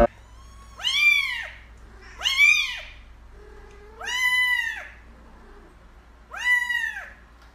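A cat meowing four times, about two seconds apart, each meow rising then falling in pitch.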